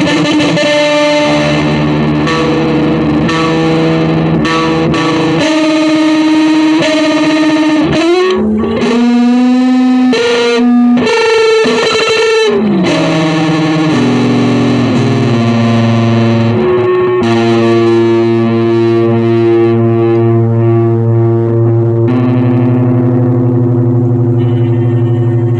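Electric guitar played through distortion and effects, holding long sustained notes and chords. About a third of the way in the notes waver and bend in pitch for several seconds, then it settles into a steady held chord.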